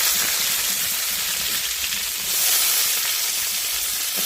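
Chopped onion sizzling loudly in hot cooking oil just after going into the pan, a dense steady hiss that swells briefly a little past halfway.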